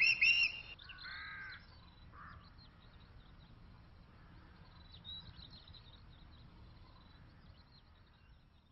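Birds calling: a fast run of loud, high chirps at the start, a short harsh call about a second in, then faint twittering that fades away near the end.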